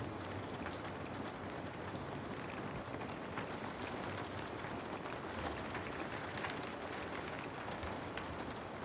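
Steady rain falling, with scattered individual drops ticking through the constant hiss.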